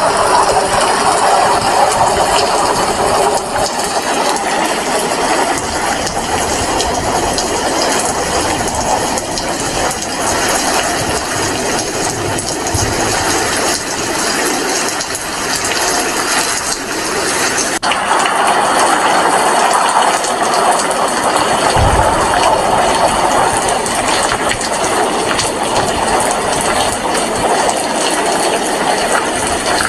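Heavy rain falling steadily, a dense even hiss with one brief low thump about two-thirds of the way through.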